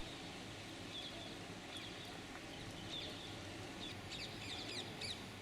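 Faint outdoor ambience with small birds chirping in short, quick calls, more of them about four seconds in.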